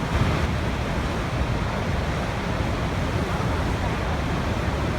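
Waterfall: a steady, dense rush of falling water with a deep low rumble, unbroken throughout.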